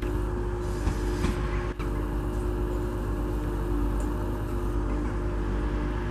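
TransPennine Express Hitachi Class 802 bi-mode train running slowly on its diesel engines, a steady engine hum over rumbling wheels on the rails.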